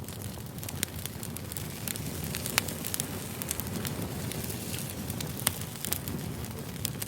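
Wood fire burning: a steady low rumble with frequent sharp crackles and pops, two of them louder, about two and a half and five and a half seconds in.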